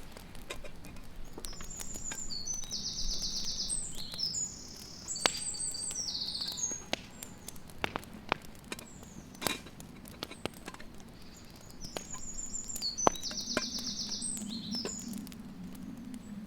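A songbird singing two similar phrases of high whistles and fast trills, about ten seconds apart, with scattered sharp clicks and ticks between them.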